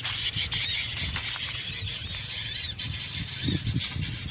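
Small birds' chirps: a series of short, high notes that rise and fall, repeated a few times a second, over a low rustling rumble.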